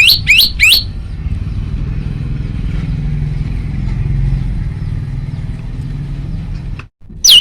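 Male common tailorbird calling: three loud, sharp rising notes in quick succession, then, after a steady low rumble, one loud note falling steeply near the end. A brief drop-out comes just before that last note.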